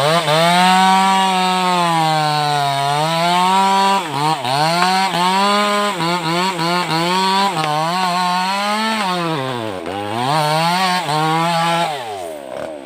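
Maestro chainsaw fitted with a Stihl chain cutting wood at high revs, the engine pitch sagging and recovering several times as the chain loads in the cut. The revs fall away near the end.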